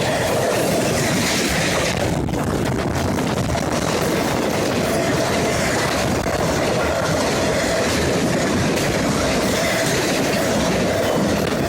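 CSX intermodal freight train's cars rolling past: steady, loud rumble of steel wheels on the rails with a clickety-clack over the rail joints.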